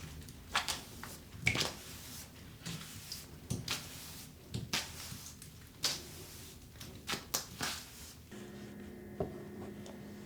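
Scattered sharp clicks and knocks of small objects being handled, with light rustling. A steady hum comes on about eight seconds in.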